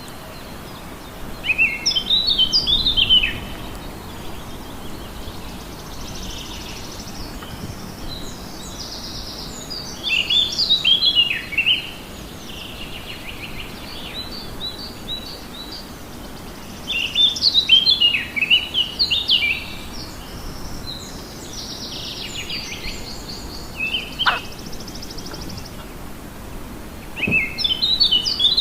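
A wild songbird singing: a quick, warbling phrase of about two seconds, repeated roughly every eight seconds. Fainter buzzy bird calls come in between, over steady outdoor background noise.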